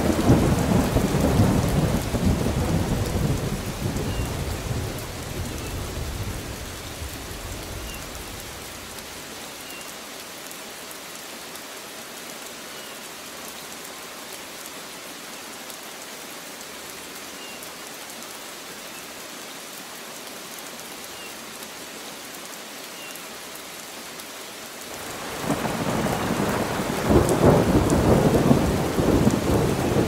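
Steady rain with rolling thunder. A rumble dies away over the first several seconds, leaving the rain alone, and a second rumble builds up about 25 seconds in.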